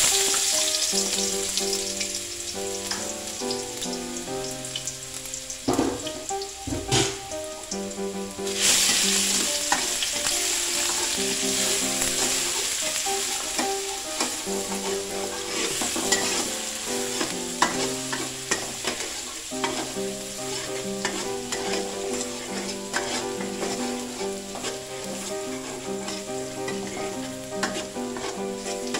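Chopped garlic sizzling in hot oil in a wok, with a spatula scraping and clicking against the pan as it is stirred. The sizzle starts loudly as the garlic goes in and grows louder again about eight seconds in.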